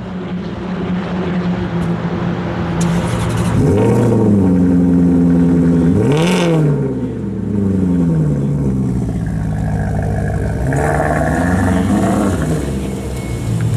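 Maserati Quattroporte Sport GTS's 4.7-litre V8 exhaust idling, then revved: a rise near 4 s that holds briefly before dropping, a sharp blip about 6 s in that falls back to idle, and a smaller blip near the end.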